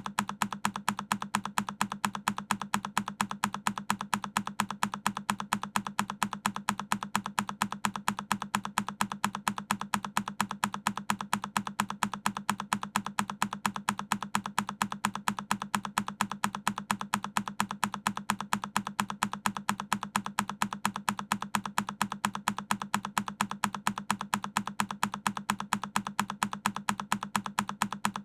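A single key press on a Keychron K10 mechanical keyboard, looped: the same sharp click repeats at an even pace, several times a second, without change.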